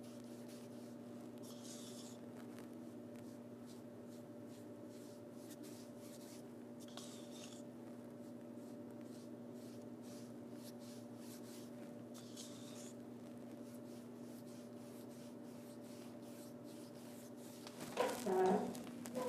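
Paintbrush strokes brushing and scratching softly across a painted stage backdrop, over a steady electrical hum. A brief, louder sound comes near the end.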